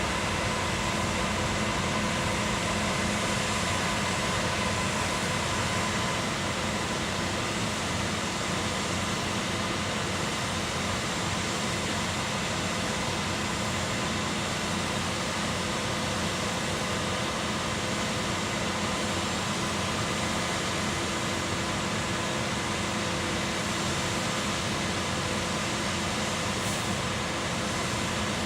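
Concrete pump running steadily: a constant, unbroken mechanical din with a few steady hum tones through it.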